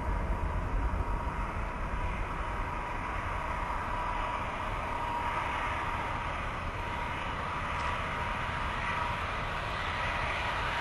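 Airbus A330 twin-engine jet airliner landing: steady jet engine noise with a thin whine and a deep rumble, and a rushing hiss that grows stronger in the second half.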